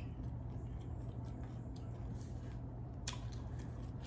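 Close-up chewing of a taco, with soft wet mouth clicks and one sharper click about three seconds in, over a steady low electrical hum.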